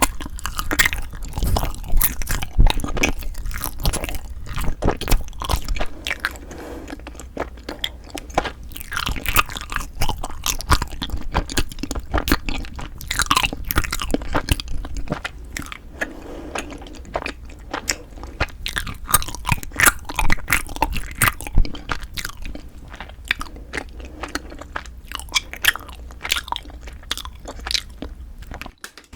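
Close-miked chewing and biting of frozen cream cheese rice cakes (ice chapssaltteok): a steady run of small crisp clicks and crackles.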